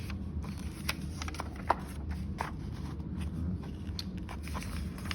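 Comic book pages being handled and turned: scattered small paper crinkles and clicks over a low steady hum.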